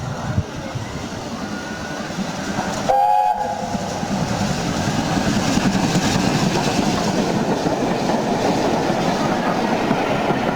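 A passenger train passing at speed close by. It gives a brief two-note horn blast about three seconds in, then the loud, steady noise of the train running past on the rails.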